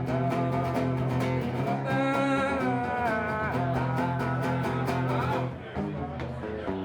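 Live song: a strummed guitar with a wordless sung vocal line held over it, the voice dropping out about five seconds in, after which the guitar carries on more quietly.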